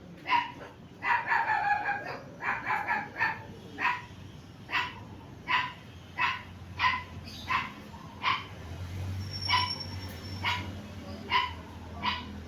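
A small dog yapping repeatedly: a quick run of barks about a second in, then single high barks roughly one a second.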